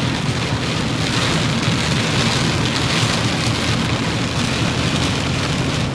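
Steady rain pelting a moving car, with a constant low rumble of engine and tyres on the wet road underneath.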